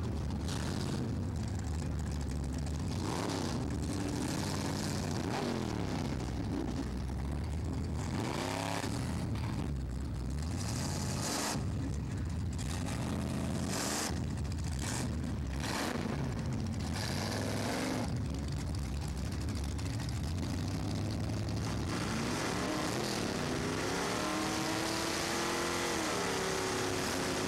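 Drag-race car engines running hard and revving, the pitch climbing again and again as they pull away; near the end an engine is revved up and down repeatedly, as at the starting line.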